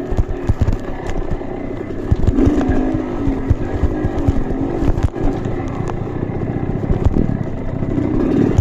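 Off-road trail motorcycle engine revving up and down over and over, mixed with frequent short low thumps and knocks.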